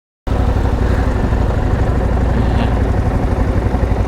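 Motorcycle engine running steadily at low speed. It cuts in abruptly out of silence just after the start.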